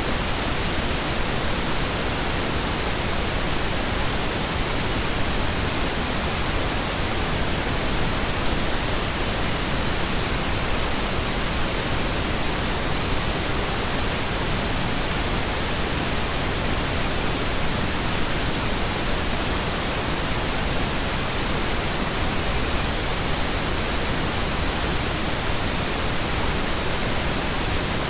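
Steady pink noise: an even, unchanging hiss across the whole range of pitch, played as a sleep aid.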